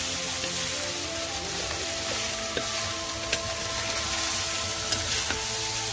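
Fried rice sizzling as it is stirred and tossed with a wooden spatula in a stainless steel wok, with a few sharp clicks of the spatula against the pan. Background music with held notes plays throughout.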